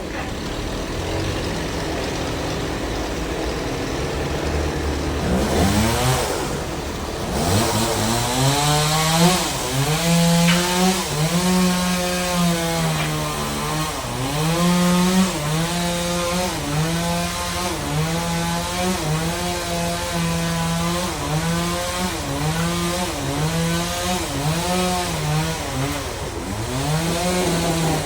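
Sawmill bandsaw cutting a large trembesi log, with a loud, steady machine note. About six seconds in the pitch rises, then keeps dipping and recovering as the blade works through the wood.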